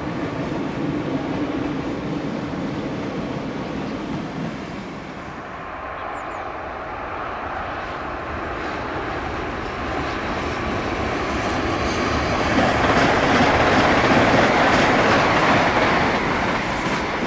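Passenger train running over a stone railway viaduct. The rumble of an earlier train fades over the first few seconds, then the wheel and rail noise of a second train grows louder, with a clickety-clack, and is loudest a couple of seconds before the end.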